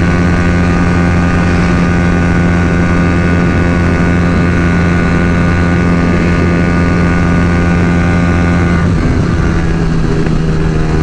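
Yamaha R15 V3's single-cylinder engine, breathing through a Daytona full-system exhaust, held at a steady high pitch at full throttle near top speed, with wind rush. The note does not climb, and it drops to a lower pitch about nine seconds in as the throttle eases. The owner puts the stalled top end down to the engine running lean on the exhaust without a remap.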